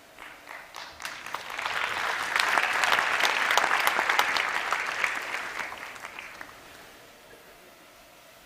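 Audience applauding: clapping builds quickly, peaks after a few seconds and dies away.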